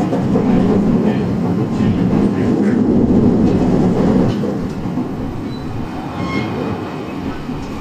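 Running noise heard inside a Shizuoka Railway electric commuter train between stations: a steady rumble of wheels on rail and running gear. It is louder for the first four seconds or so and then eases a little.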